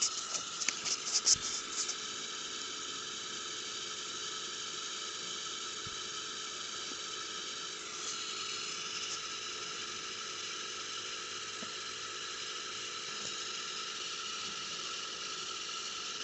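Fuel pressure regulator on a Land Rover Td5 five-cylinder diesel making a steady, irritating hissing sound with a few whistling tones in it, with a slight change in tone about halfway through. The owner takes the hiss for absolutely abnormal.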